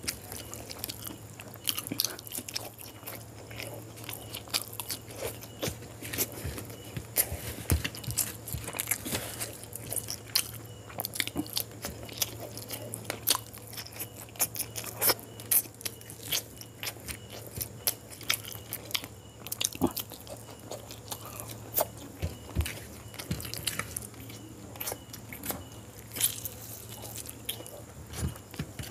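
Close-miked chewing and wet mouth sounds of a person eating chicken curry and boiled quail eggs by hand, with many irregular sharp smacks and clicks over a steady low hum.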